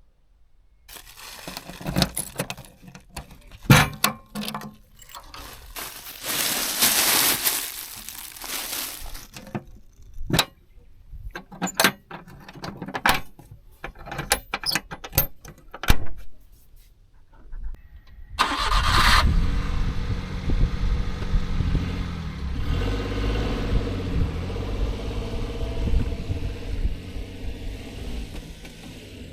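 Scattered knocks, clicks and rustling, then about two-thirds of the way through a small engine starts with a short burst and settles into steady running. The engine is most likely the owner's Daihatsu Hijet kei truck's 660 cc three-cylinder.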